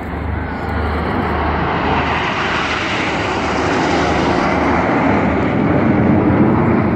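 Formation of Red Arrows BAE Hawk T1 jet trainers flying past, a broad jet roar that grows steadily louder and peaks near the end.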